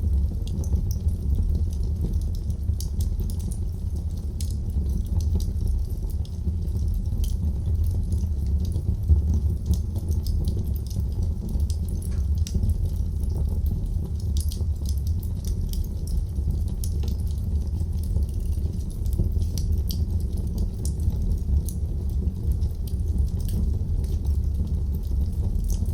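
Wood fire burning in a fireplace: many small crackles and pops scattered over a steady low rumble of the flames.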